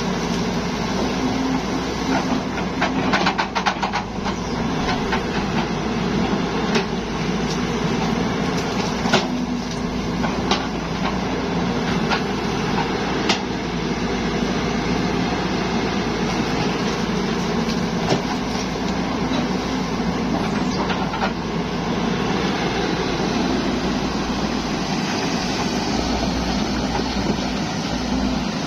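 Zoomlion excavator's diesel engine running steadily under work, with scattered knocks and cracks from the machine working, clustered about three to four seconds in and recurring every few seconds after.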